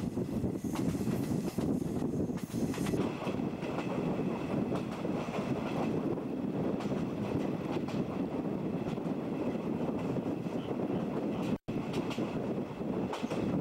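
Running noise of a JNR 50-series passenger coach on the move, heard at an open window: wheels on the rails and rushing air, with light clicks at the rail joints. The sound cuts out for an instant near the end.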